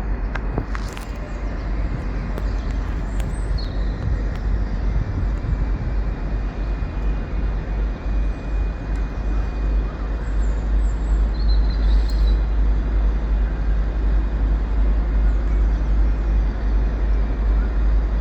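Train moving slowly through the station: a steady rumble, with brief high squeals about three and a half seconds and twelve seconds in.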